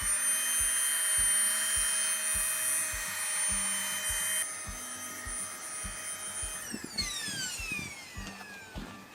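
A small electric motor whining at a steady high pitch, then winding down in a falling whine near the end. A soft regular musical beat runs beneath it.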